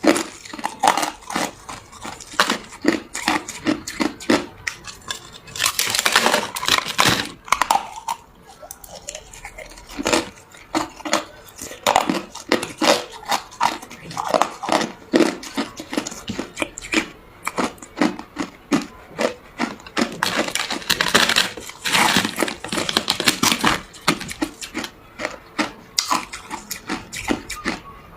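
A person biting and chewing ice: rapid, irregular sharp crunches throughout, with two longer spells of dense crunching.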